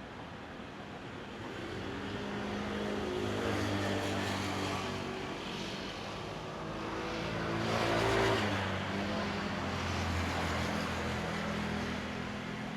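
Motor vehicles passing on a road, their engine hum swelling and fading several times. The loudest passes close by about eight seconds in with a rush of tyre and engine noise.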